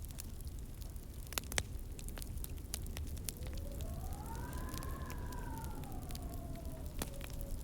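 Wood fire crackling in a fireplace, with scattered sharp pops over a low rumble. A pair of louder pops comes about a second and a half in. From about three seconds in, a faint whistling tone rises and then slowly falls.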